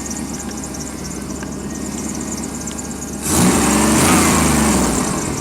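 Chevrolet 350 TBI V8 idling steadily, then revved once about three seconds in, the pitch rising and falling back over a couple of seconds, with a burst of hiss.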